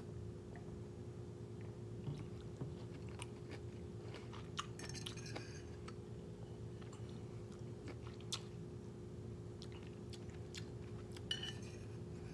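Close-miked chewing and mouth sounds of a person eating a forked rice dish, with scattered short clicks and taps over a faint steady hum.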